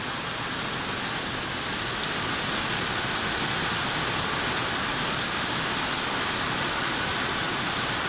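Heavy downpour: a steady, dense hiss of rain pouring down, swelling a little over the first couple of seconds and then holding.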